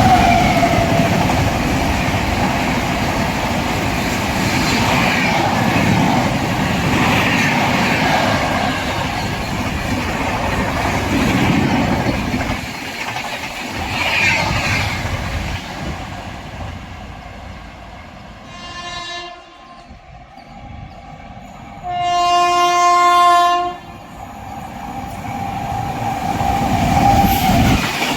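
Express train rushing past at speed, its running rumble and wheel clatter slowly fading over about fifteen seconds. Then a train horn sounds briefly, and again, loud, for about two seconds. The rumble of another train builds near the end.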